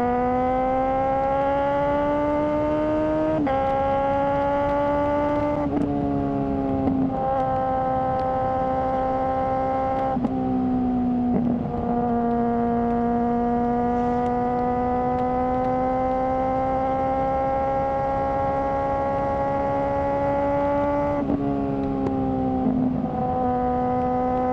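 Suzuki GSR600's inline-four engine through a GPR Ghost aftermarket exhaust, running at steady high revs. Its note climbs slowly and breaks down in pitch several times, with a long even stretch in the middle.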